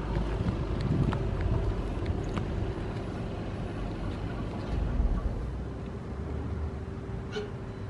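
Volkswagen Passat 2.0 TDI four-cylinder turbodiesel idling steadily, heard at the rear exhaust tailpipes.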